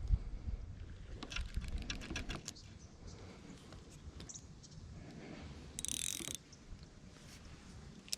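Small spinning fishing reel being cranked, a quiet run of mechanical clicks and ticks, with a short hiss about six seconds in.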